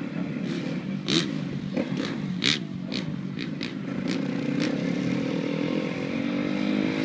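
Motocross bike engine running, with several short sharp clacks in the first few seconds, then revving up with steadily rising pitch through the last three seconds as the bike builds speed.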